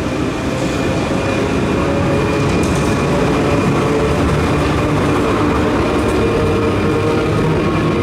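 Trieste–Opicina tram running on its track: a steady rumble with a faint, steady high whine.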